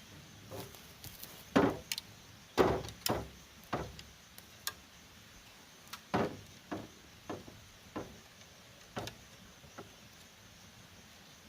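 Bamboo being struck while it is worked: about fifteen irregular knocks, each with a short ring, the loudest ones in two clusters early and midway.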